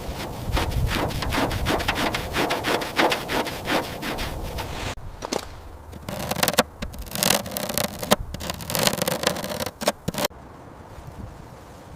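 Rapid back-and-forth scraping strokes, several a second, breaking off twice in the middle and fading to a quieter stretch near the end.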